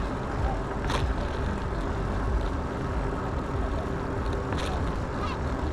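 Steady rumble of wind and road noise while riding an e-bike, with a few faint clicks.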